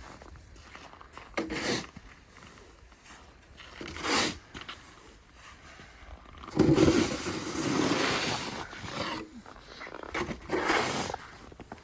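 Snow shovel scraping and pushing snow in separate strokes, with one longer push in the middle.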